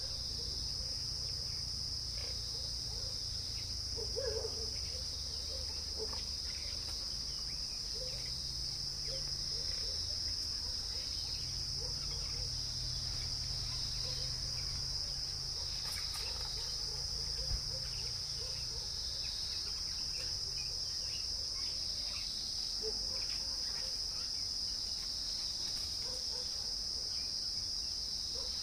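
Steady, high-pitched drone of insects, unbroken throughout, over a low rumble, with a few faint short low notes scattered through it.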